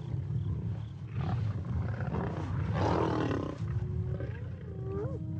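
Lions snarling and growling over a wildebeest kill, with a louder, rough snarl a little past the middle, while spotted hyenas call in short rising whoops; the commotion that draws the rest of the hyena clan in.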